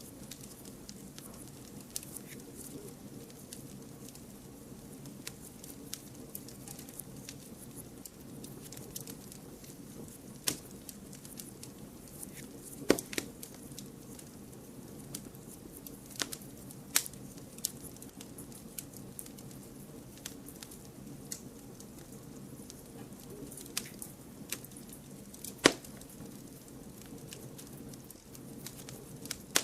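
Wood fire crackling: a low, steady rush of burning with scattered sharp pops and snaps every second or two, a few of them much louder than the rest.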